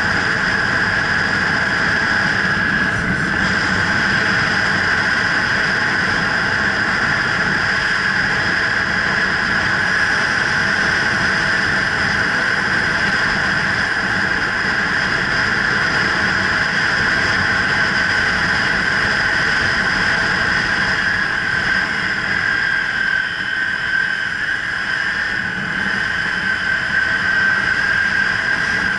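Kawasaki Ninja 300's parallel-twin engine running under way, mixed with rushing wind, as picked up by a helmet-mounted camera. Steady, easing off briefly about 23 seconds in.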